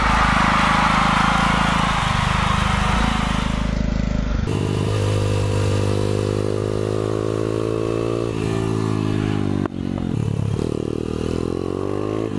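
Small motorcycle engine under hard acceleration on track, its revs climbing, dropping at a gear change and climbing again. It starts under a loud rushing noise.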